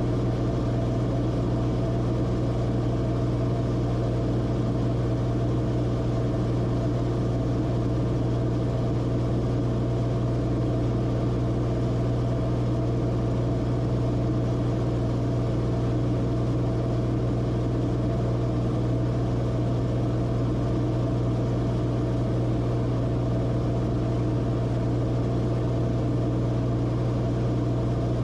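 Cabin drone of the Cessna Corvalis TTX's turbocharged Continental six-cylinder engine and propeller, holding one even pitch with a strong low hum.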